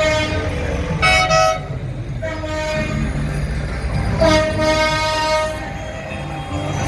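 A loud single-note horn on a passing tractor sounding in repeated blasts, the last and longest lasting about a second and a half, over the low rumble of tractor engines.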